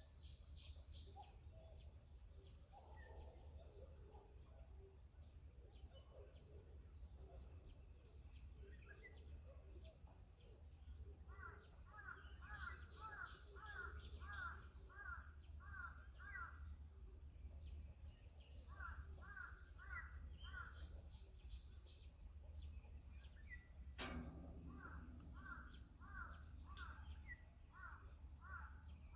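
Faint outdoor bird calls: a bird repeats a short call note in three runs, about two or three notes a second, over a steady thin high hiss and a low background rumble. There is a single sharp click near the end.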